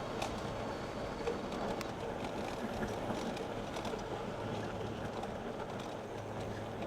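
Steady riding noise of an e-bike rolling on pavement, with faint steady hum and a few light clicks and rattles.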